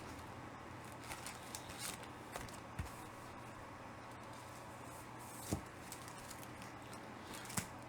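Comic books being handled and set aside: a few light rustles and clicks, then two soft knocks, over a faint steady hum.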